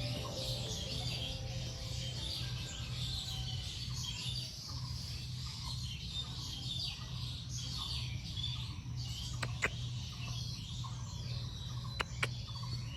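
Small wild birds chirping and twittering continuously, with a few sharp clicks about two thirds of the way in and near the end.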